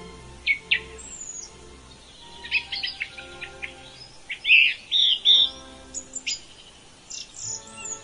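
Wild birds calling in short, sharp chirps and trills that come in clusters, the loudest about halfway through, over soft background music with long, held notes.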